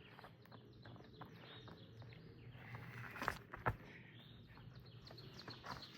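A bird calling in quick series of short, falling chirps, over faint outdoor background noise. Two sharp knocks sound a little after three seconds in.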